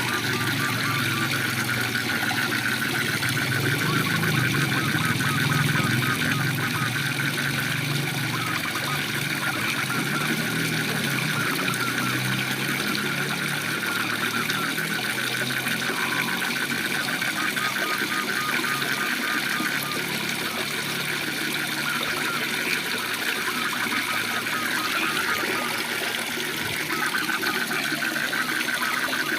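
Waterfall rushing steadily, with a continuous rapid pulsing trill of calling frogs over it.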